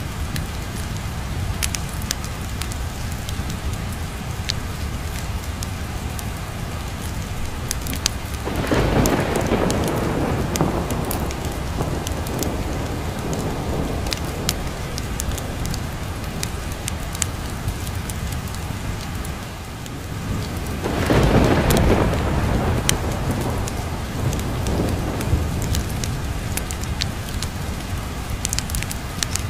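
Steady rain with two rolls of thunder, one about a third of the way in and another about two-thirds through, each swelling and fading over a few seconds. Sharp crackles and pops of a wood fire in a fireplace run throughout.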